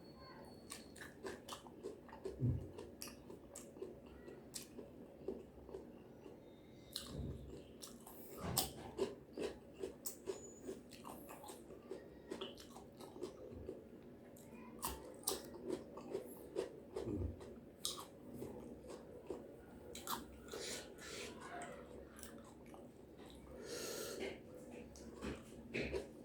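Close-up eating sounds: chewing and biting fried chicken, fried tofu and tempeh with raw vegetables, with irregular crunches and wet mouth clicks.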